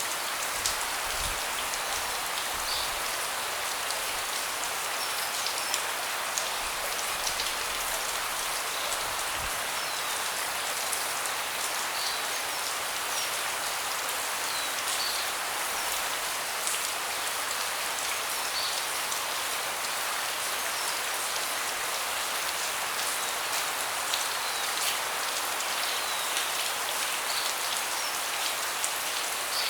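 Steady rain falling on a deck: an even hiss with many separate drops ticking throughout.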